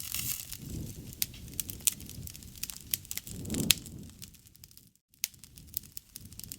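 Wood fire burning, with many sharp crackles and pops over a low rushing of flame that swells a little past halfway; the sound drops out for a moment about three-quarters through.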